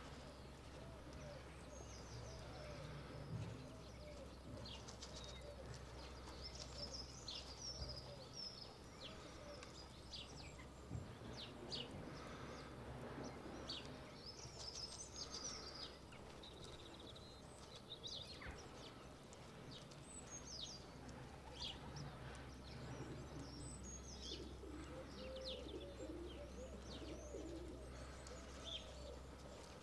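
Faint chirps and song phrases from small wild birds, repeating all through, over a steady low hum.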